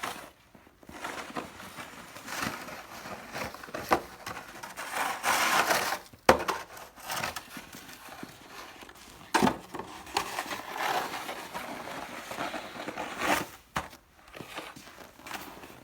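Snow shovel scraping along the driveway and pushing fluffy snow, in irregular strokes with a few sharp knocks, the sharpest about six seconds in.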